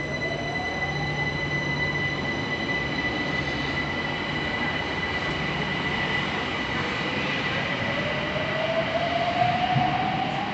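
London Overground Class 378 electric train pulling out of the platform and accelerating away, with a motor whine that rises slowly in pitch over the second half. A steady high-pitched tone runs beneath it.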